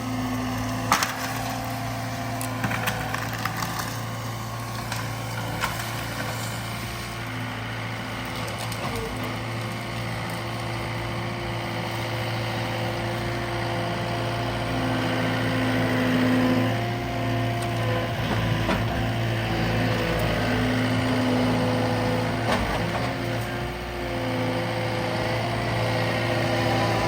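Diesel engine of a Cat 299D2 compact track loader running steadily, with a few sharp knocks in the first several seconds.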